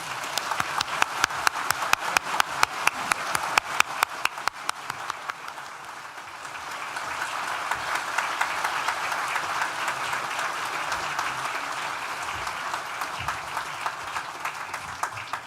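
An audience in a large hall applauding, with sharp distinct claps at first, then a fuller steady round of clapping that thins to scattered claps near the end.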